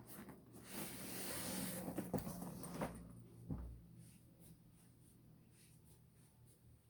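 Rustling handling noise with a few sharp clicks, then a dull thump about three and a half seconds in.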